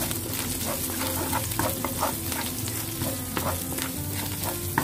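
Minced garlic sizzling in hot oil in a wok, with a wooden spatula scraping and tapping against the pan many times as it is stirred.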